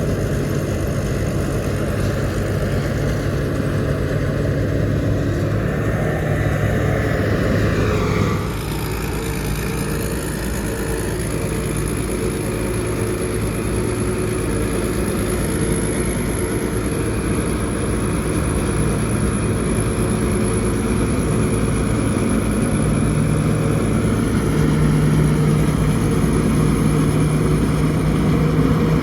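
Rice combine harvester's engine running steadily under load, with a thin high whine from the machinery; the engine note changes and dips slightly about eight seconds in.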